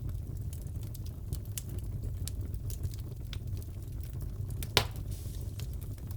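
Wood fire crackling in a fireplace: a steady low rumble of burning with scattered small crackles and one loud pop near the end.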